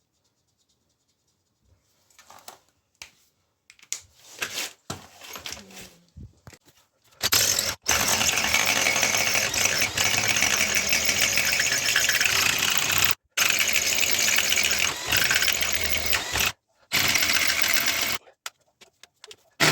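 A few small handling knocks, then from about seven seconds in a power drill boring into the floor, running in long bursts with a few brief stops.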